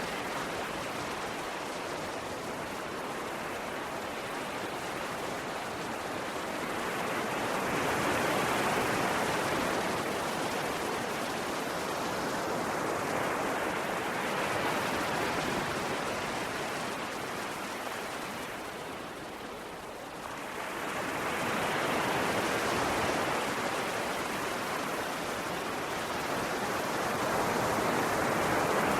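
Ocean waves washing onto a shore: a steady rush of surf that swells and ebbs slowly, every five to seven seconds, with a lull about two-thirds of the way through before the next wave builds.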